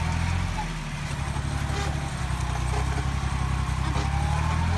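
Yanmar YM169D compact tractor's diesel engine running steadily while plowing. Its low drone dips briefly about a second in, then holds.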